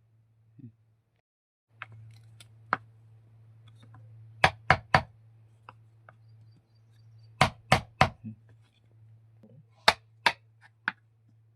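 Sharp knocks on wood, most in quick groups of two or three with pauses between, over a steady low hum.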